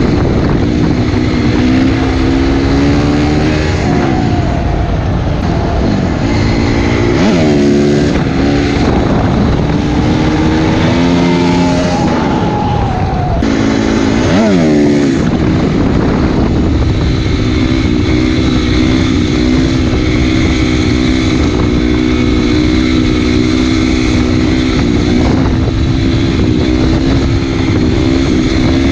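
Honda CRF250R's single-cylinder four-stroke engine under way, its revs rising and falling several times with quick swoops in pitch, then holding a steady pitch from about halfway through.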